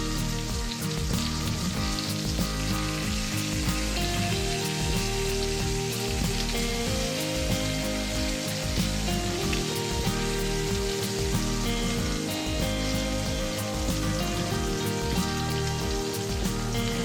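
Food sizzling and crackling in hot oil in a frying pan, under background music.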